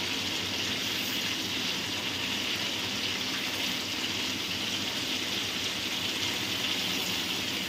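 Chicken pieces frying in oil in an aluminium karahi on high heat, with whole tomatoes sitting on top: a steady, even sizzle.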